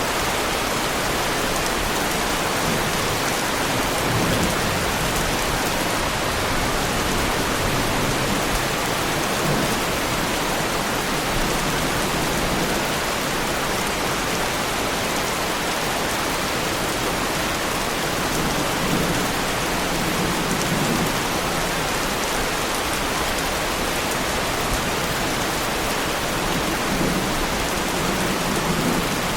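Heavy rain falling steadily on a car's bodywork, a dense even patter with no let-up.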